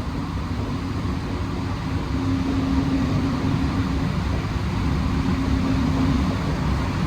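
Alstom NS-16 metro train running between stations, heard from inside the car: a steady low rumble from the running gear, with a low steady hum that comes and goes twice.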